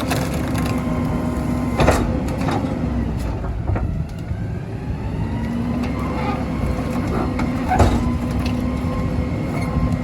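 Garbage truck engine and packer running with a steady drone that drops out briefly a little after three seconds in, with two sharp knocks at about two and about eight seconds in, as tree branches are packed.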